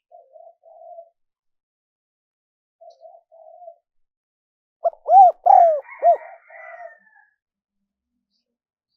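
Spotted dove cooing: two soft coo phrases, then about five seconds in a much louder phrase of three arched, rising-and-falling coos.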